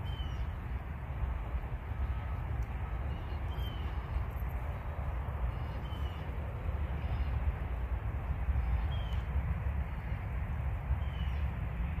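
A bird calls a short falling chirp five times, every two to three seconds, over a steady low rumble.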